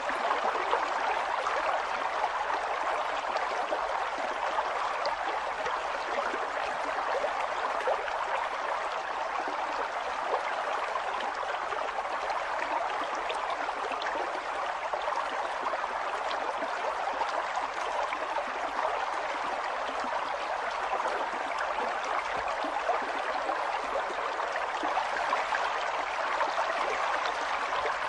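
A river flowing steadily, water rushing and burbling over stones in an unbroken, even stream.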